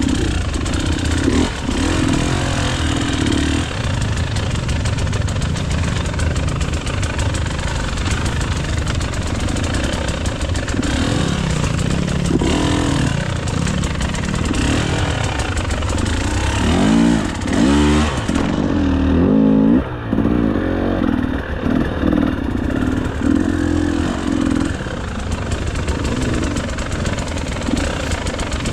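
KTM EXC 300 two-stroke enduro motorcycle engine running and being revved on and off, with quick rises and falls in pitch about two-thirds of the way through. For a few seconds after that the sound turns dull and muffled.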